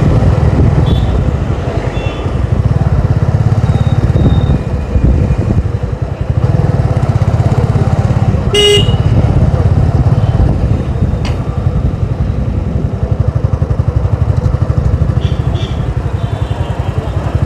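Motorcycle engine running steadily while riding through town traffic. A vehicle horn honks briefly about nine seconds in, with a few fainter horn toots around it.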